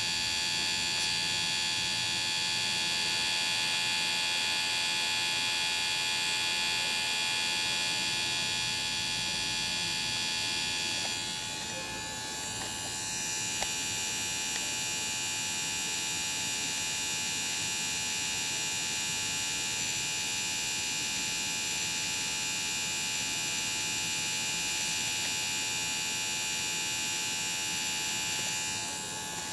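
Small electric motor whining steadily at a high pitch. It drops off briefly about eleven seconds in, then picks up again and runs on, easing off near the end.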